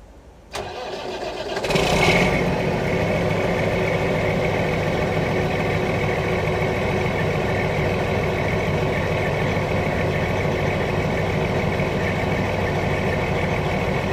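1995 Volvo semi truck's 12.7-litre diesel engine on a cold start: the starter cranks for about a second, the engine catches and rises in revs about two seconds in, then settles into a steady idle.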